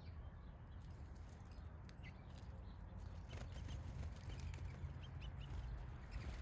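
Wild backyard birds giving short, high chirps, scattered at first and then coming in a quick series in the second half, with a few faint clicks over a steady low rumble.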